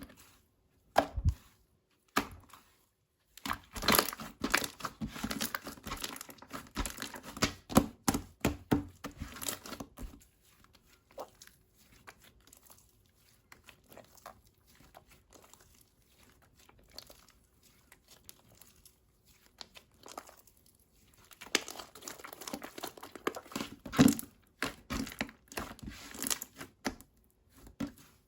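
Slime being squished and stretched by hand, giving dense runs of small clicks and pops. Two busy stretches, the first starting a few seconds in and the second near the end, are separated by a quieter spell of only scattered pops.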